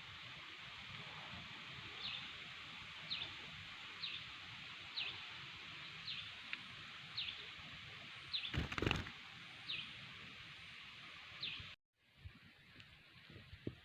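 A small bird repeating a short, high, downward chirp about once a second over a steady hiss. A brief rush of noise comes about nine seconds in, and the sound cuts off abruptly near the end.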